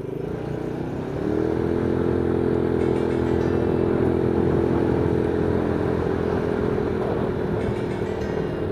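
Motorcycle engine running under way; its pitch rises about a second in as it accelerates, then holds steady.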